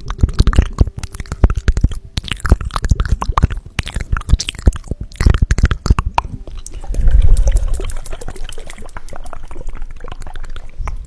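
Small ampoules handled close to the microphone: rapid, irregular clicks and taps with liquid sounds, and a denser swell of rustling about seven seconds in.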